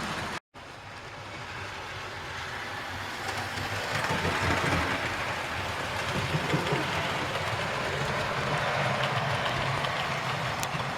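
Model train running on the layout track, its wheels rumbling and clicking over the rails. The sound cuts out briefly about half a second in, then grows louder about four seconds in as the train comes nearer.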